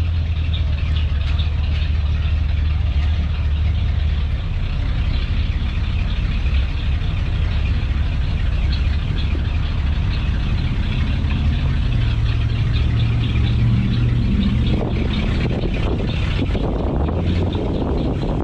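Car engine idling with a steady low rumble. Near the end a busier, mixed noise joins it.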